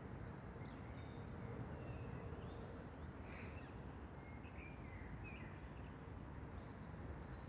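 Faint bird calls: a scattering of short, high chirps and brief whistled glides over a steady low background rumble.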